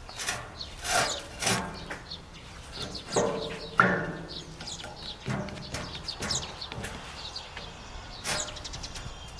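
Small birds chirping repeatedly, with several sharp knocks and clunks, the loudest about four seconds in.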